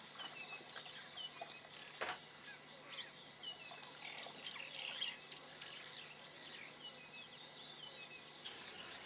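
Outdoor ambience of scattered short bird chirps over a steady high insect buzz, with one sharp click about two seconds in.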